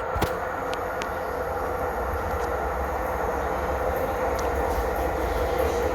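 Tyne and Wear Metrocar train running into the platform: a steady low rumble slowly growing louder, with a steady whine over it and a few light clicks in the first second.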